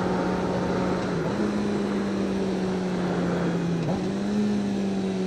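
Sport bike's inline-four engine running at steady cruising revs, its pitch dipping briefly and recovering twice, about a second in and near the four-second mark, under a constant rush of wind on the helmet camera.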